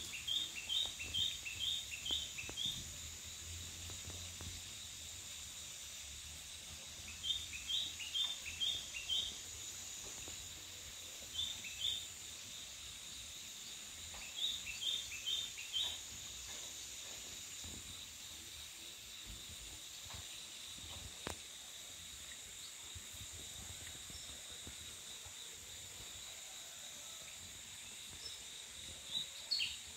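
A bird calling in short runs of evenly spaced, high chirping notes, about two or three a second, five runs with pauses between them. Under it, a steady high insect drone.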